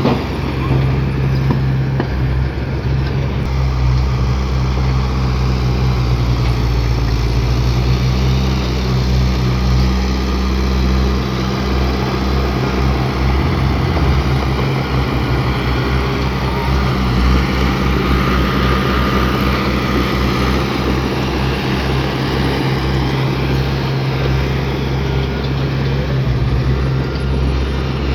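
Heavy diesel engine of earthmoving equipment running steadily under load, its low drone shifting in pitch a couple of times.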